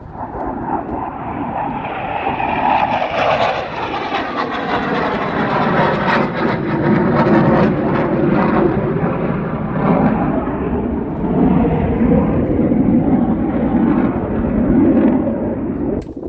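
Fixed-wing aircraft passing low, a loud rushing engine rumble whose pitch sweeps downward a few seconds in as it goes by.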